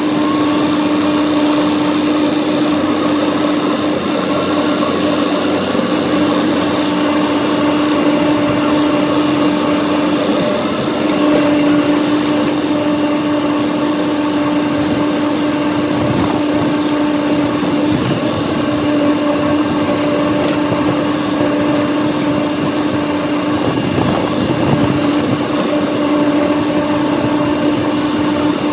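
John Deere diesel tractor running steadily under load, driving a rotary cutter (brush hog) through a field, with a constant engine drone.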